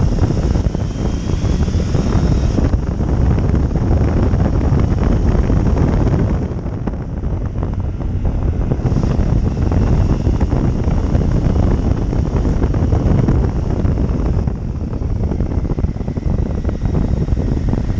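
Motorcycle riding along, with heavy wind noise buffeting the microphone over the engine; the engine's faint whine rises in pitch in the first few seconds.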